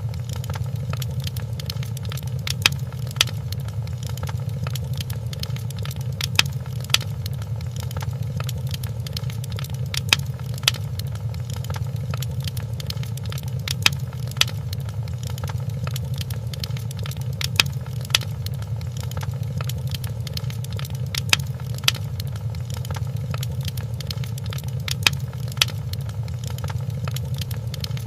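Wood fire crackling in a fireplace: sharp pops in pairs about every four seconds, repeating at even intervals, over a steady low rumble.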